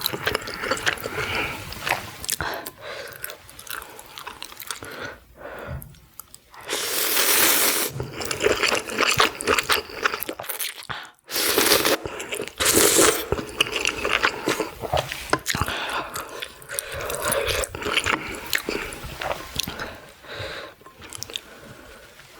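Close-miked eating sounds: wet chewing and biting with many small clicks and smacks. Two longer, louder noisy stretches come about seven and twelve seconds in.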